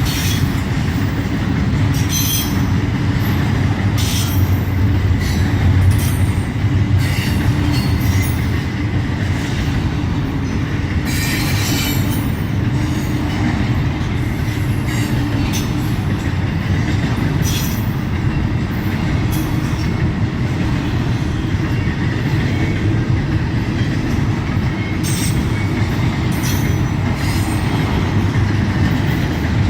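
Intermodal freight train's cars rolling past, a steady low rumble of steel wheels on rail with scattered sharp clicks.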